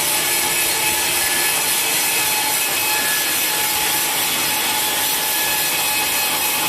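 Sawmill saw cutting through a large teak log: a steady, unbroken sawing noise with a faint thin whine from the blade.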